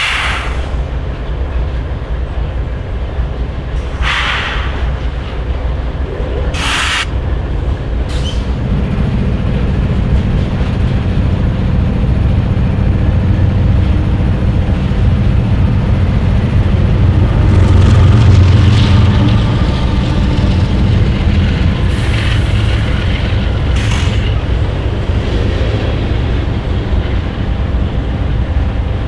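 Canadian Pacific GE ES44AC diesel locomotives idling close by with a steady low hum, while coal cars roll past on the next track. The train noise swells in the middle, and a few short, sharp clicks and hisses stand out.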